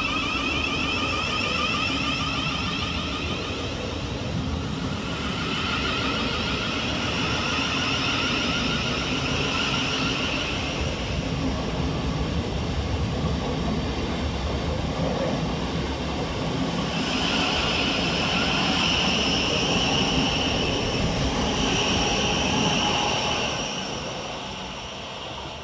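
Thameslink Class 700 electric multiple unit pulling away, its traction motors whining in a series of rising tones over a steady rumble of wheels on rail. The sound fades over the last couple of seconds.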